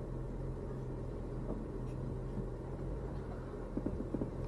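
A vehicle engine running steadily at a constant low hum, with a rumble underneath and a few light knocks near the end.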